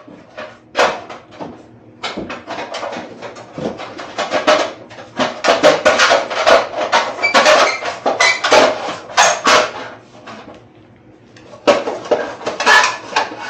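Metal parts and hardware clattering and clinking as they are handled while loosening a fitting. It comes in a long run of rapid knocks and clinks, dies down briefly, then starts again near the end.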